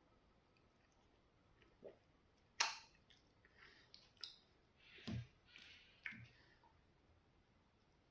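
Close-up mouth sounds of eating: wet lip smacks and tongue clicks while chewing a mouthful of pounded yam fufu with okra soup. They come in scattered short bursts, and a sharp smack about two and a half seconds in is the loudest.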